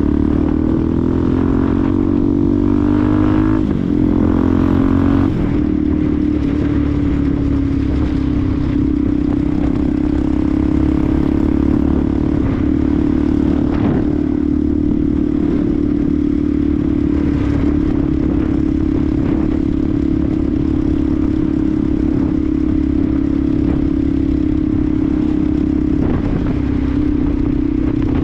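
Benelli TNT 125's single-cylinder four-stroke engine under way. Its pitch climbs and drops back twice in the first five seconds, as on upshifts, then holds steady at cruising speed.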